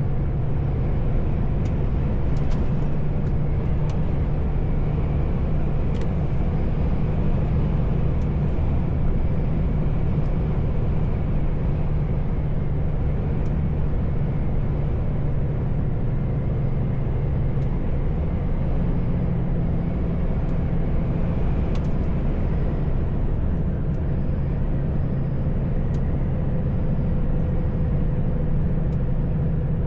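Heavy truck's diesel engine running steadily under way, with road noise; the engine note shifts slightly about eighteen seconds in.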